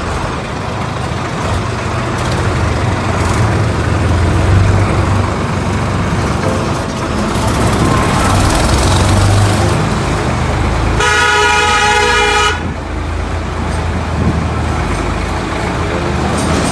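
Sonalika 35 tractor's diesel engine running steadily on the move. A horn sounds once, about eleven seconds in, for about a second and a half.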